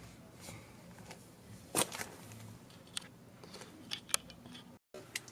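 Scattered light clicks and knocks of tools and engine parts being handled, the loudest just under two seconds in, with a few more spread through the rest.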